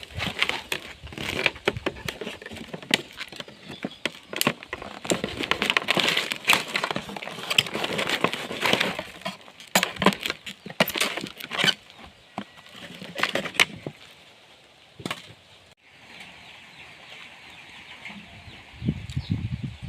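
Busy rustling and crackling with many sharp clicks, dying down after about fourteen seconds, with chickens clucking.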